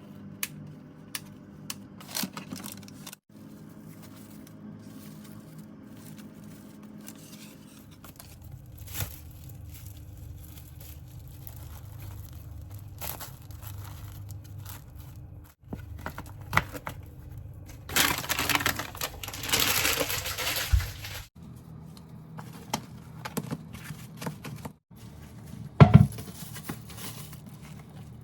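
Kitchen handling sounds: packaging crinkling and tearing, with scattered light clicks and knocks and a louder stretch of rustling about two-thirds of the way through.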